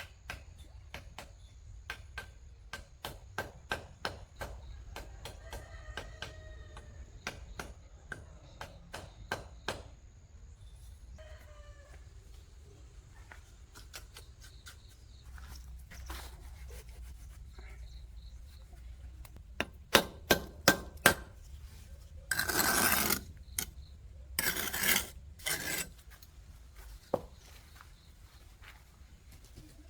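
Irregular knocks and taps of work on wood, with a few short chicken calls in the first half. Near the end come a quick run of louder knocks and two loud rasping bursts of scraping, each about a second long.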